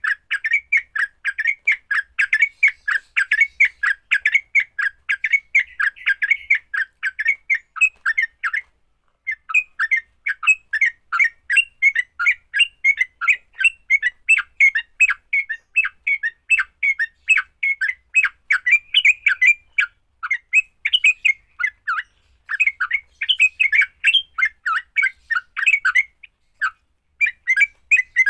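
Yellow-vented bulbul (trucukan) giving its fast, chattering fighting song: an unbroken string of short, sharp notes, several a second, with brief pauses about a third of the way in and twice near the end.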